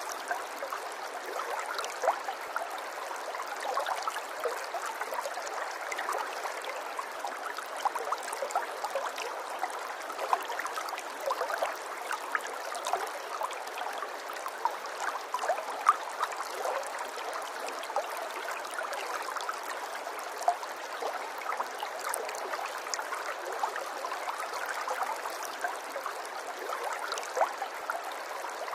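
Water trickling and gurgling, like a small stream running over stones, in a steady flow with many small splashes and drips.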